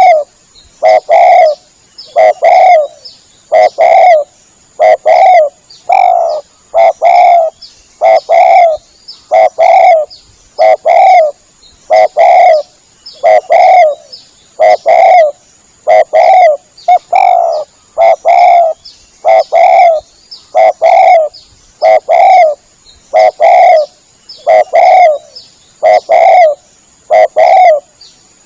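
Spotted dove (tekukur) cooing, a lure call for drawing wild doves in. Loud short cooing phrases are repeated evenly, about one every second and a half.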